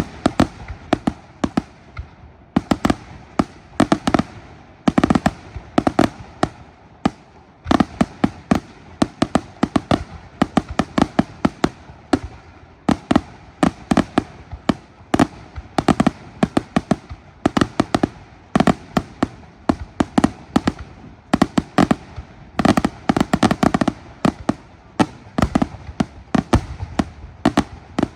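A fireworks display: shells bursting in rapid, irregular volleys of sharp bangs, several a second, thickening into denser clusters at times.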